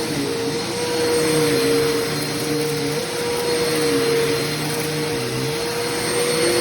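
Hoover Complete Performance bagged vacuum cleaner running steadily: a loud airy rush with a constant motor whine, and a lower hum that shifts slightly in pitch now and then.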